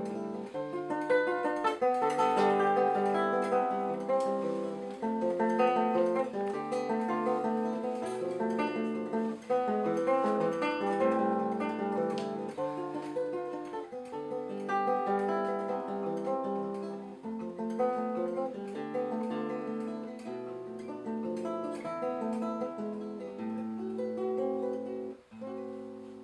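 Acoustic guitar playing the instrumental ending of a bard song, picking chords under a melody line. Near the end it pauses briefly, then strikes a last chord that rings and fades.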